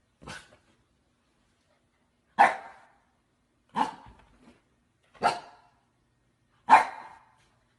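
A dog barking in single, separate barks: a faint one near the start, then four loud barks about a second and a half apart.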